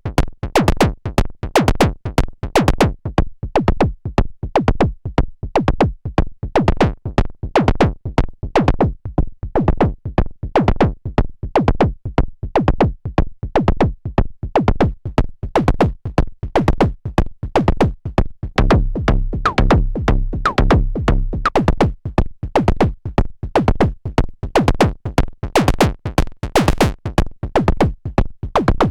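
Semi-modular analog drum synthesizer running a sequenced pattern: a fast, even stream of short hits, each falling in pitch. About two-thirds of the way through, a low droning bass note is held under the hits for a couple of seconds.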